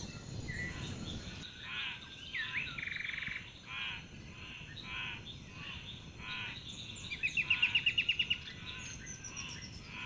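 Several birds calling over a soft forest background: short calls repeat about once a second, a brief fast trill comes near the start, and a louder rapid trill of about a dozen notes comes past the middle, with thin high-pitched notes above it.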